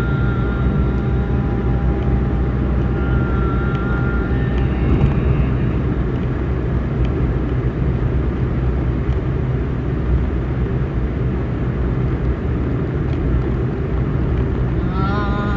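A steady low drone with a few held, pitched tones ringing over it for the first several seconds, and a wavering pitched tone coming in near the end.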